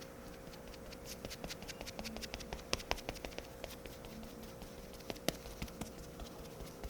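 Faint, irregular light taps and pats of a makeup cushion puff being dabbed onto the face, over a faint steady hum.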